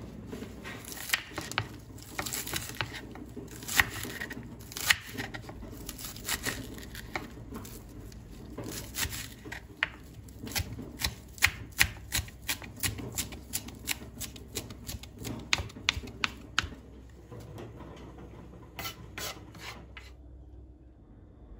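A run of sharp taps or knocks, irregular at first and then about three a second, stopping a few seconds before the end, over a low steady room hum.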